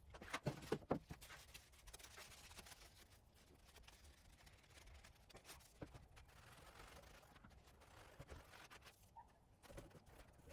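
Near silence, with a short cluster of light clicks and knocks in the first second.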